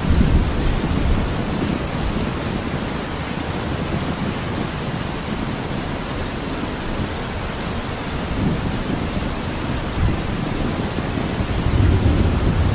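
Thunderstorm: a steady hiss of heavy rain with low rolling rumbles of thunder, the strongest rumble building near the end.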